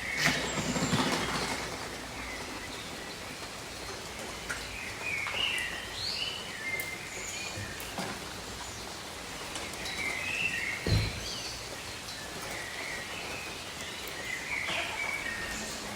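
Steady rain falling, with birds chirping in short phrases every few seconds. A louder rush of noise comes in the first second or so, and a single low thud about eleven seconds in.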